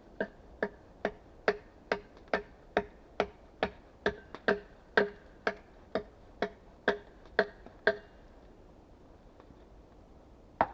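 A hand tool striking wood in a fast, even series of sharp, slightly ringing knocks, about two a second. The knocks stop about eight seconds in, and there is one more just before the end.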